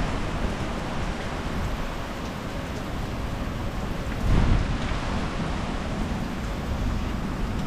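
Steady thunderstorm rain falling, an even hiss, with a brief louder low rumble about halfway through.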